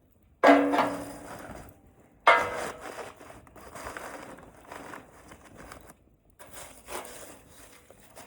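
Campfire with pine cones crackling and rustling as it burns. Loud sudden crackles come about half a second in and again near two seconds, each fading out, with quieter crackling after.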